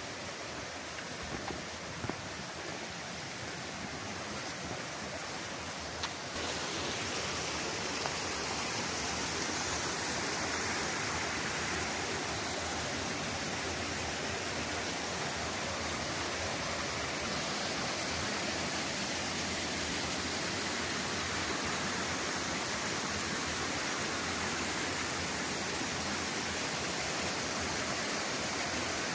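Rushing water of a mountain waterfall, a steady noise that steps up and grows louder about six seconds in.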